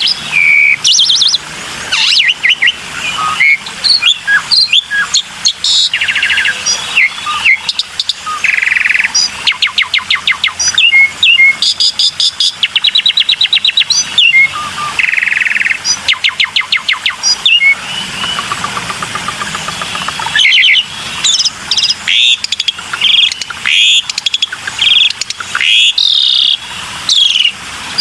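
Black-winged starling (jalak putih) singing: a loud, varied run of whistles, chattering trills and fast series of repeated notes, with short pauses between phrases.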